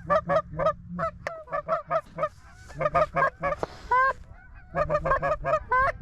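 Goose honks and clucks in fast runs of several sharp notes a second, some breaking upward in pitch, with a short lull near the middle.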